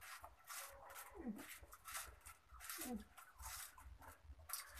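Close, crackly crunching of crisp besan sev (fried gram-flour noodles) being chewed, in a run of short irregular crunches. About a second and three seconds in come two short falling squeaky vocal sounds.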